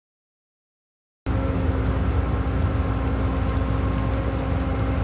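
Silence for about a second, then a vehicle engine cuts in, running steadily with a low rumble and a constant hum.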